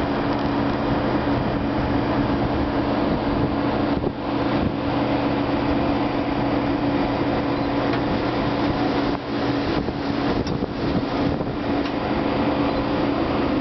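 Steady drone of an Alaska Railroad train's diesel locomotive, a constant low hum mixed with rushing wind noise.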